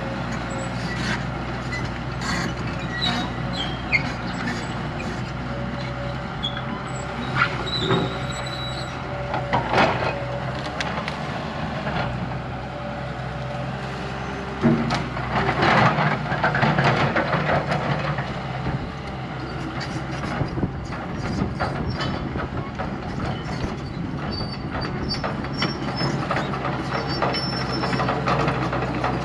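Heavy diesel earthmoving machine running steadily under load, with clanks and scraping from the work. The noise grows busier and louder about halfway through.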